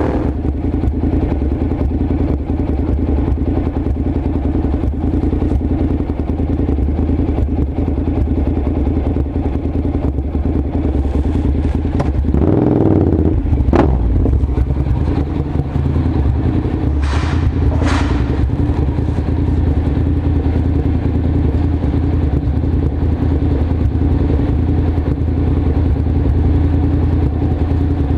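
Honda NC700S parallel-twin engine idling steadily through an aftermarket LeoVince carbon exhaust, with a brief swell in engine pitch about halfway through and two short hisses a few seconds later.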